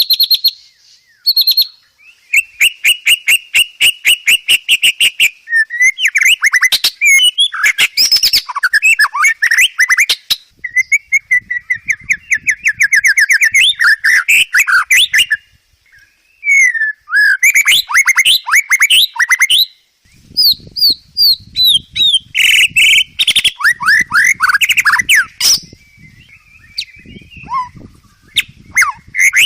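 White-rumped shama (murai batu) singing a long, loud, varied song: fast runs of repeated notes and sweeping trills, in phrases one to a few seconds long split by short pauses.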